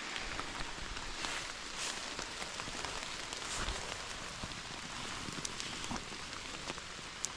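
Steady rain falling: an even hiss with many scattered sharp ticks of single drops.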